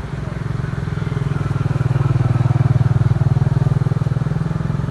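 Motorcycle engine running with a low, even pulsing note, getting louder toward the middle and then easing slightly.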